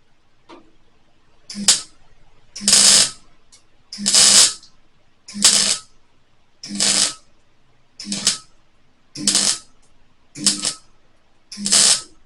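Welder stitch-welding a sheet-steel patch panel in short crackling bursts, about nine in a row roughly a second apart, each ending with a pause. The patch seam is being filled in bit by bit to avoid overheating the thin metal.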